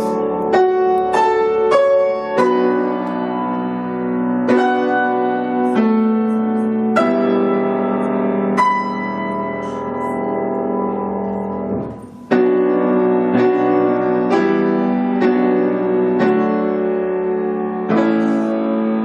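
Piano music: a run of struck notes and chords, each ringing on, with a brief dip in level about twelve seconds in.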